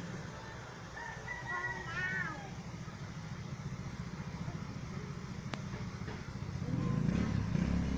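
A few short, high chirping calls about one to two seconds in, likely the pet bird, over a steady low rumble that grows louder near the end.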